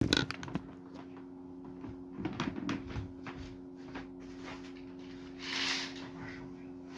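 Scattered clicks and knocks of something being handled in a small room over a steady low hum, with a brief hiss about five and a half seconds in.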